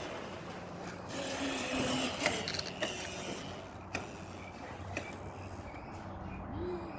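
A child's bicycle clicking and rattling as it is ridden, with a few sharper knocks.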